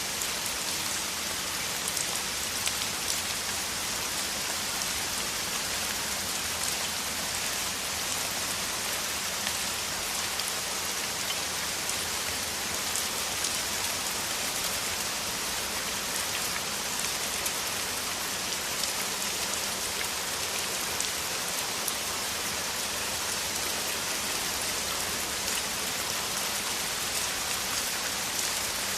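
Heavy rain falling steadily, a dense even hiss with countless individual drops pattering.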